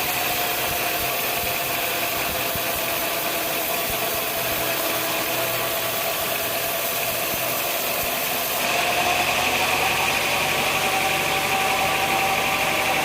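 Sawmill machinery running steadily with a constant hum and hiss, getting a little louder about two-thirds of the way through.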